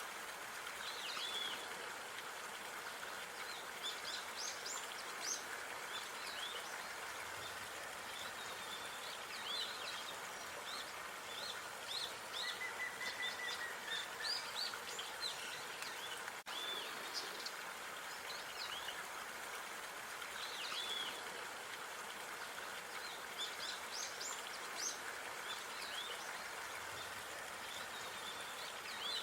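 Small birds chirping and calling in short, scattered notes over a steady outdoor background hiss.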